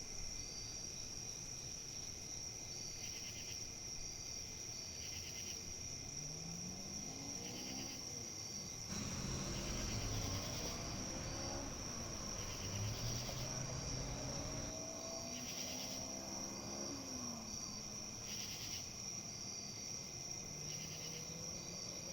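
Insects chirring steadily, with one high continuous trill and shorter pulsed calls repeating every second or two, over a soft hiss of wind in leaves. A louder rush of wind swells about nine seconds in and eases off around fifteen seconds.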